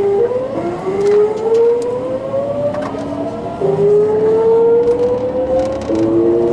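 Hitachi GTO VVVF inverter and traction motors of a Sotetsu New 7000 series train accelerating: a whine that climbs steadily in pitch and jumps abruptly to a new pitch a few times as the inverter changes pulse mode, over the rumble of the running train.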